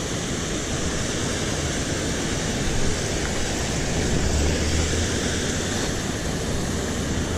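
Water rushing steadily over a small creek spillway, a constant even rush.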